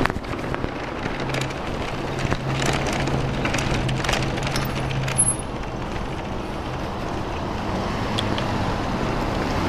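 Ariel Rider Rideal e-bike rolling over a brick-paved street: a steady rumble from the tyres with frequent rattling clicks and knocks from the bike jolting over the bricks. A steady low hum runs under it for about the first half, then fades.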